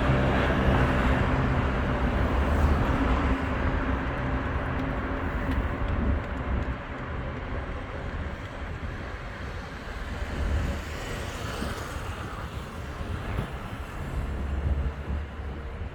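Road traffic passing close by: a heavy vehicle's low engine rumble that fades away over the first several seconds, over a steady traffic hiss, with another rumble building near the end.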